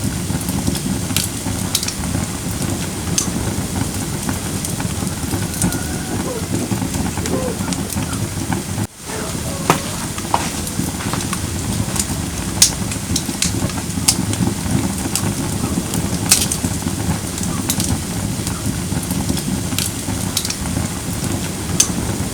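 Firewood burning in a fire pit: a steady low rushing of flames with scattered sharp crackles and pops from the burning logs. The sound dips out briefly about nine seconds in.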